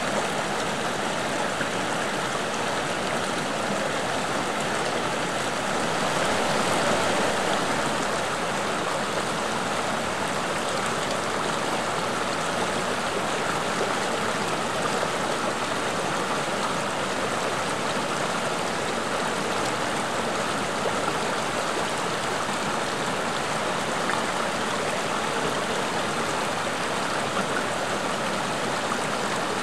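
Stream water running over rocks in a steady, even rush, swelling slightly a few seconds in.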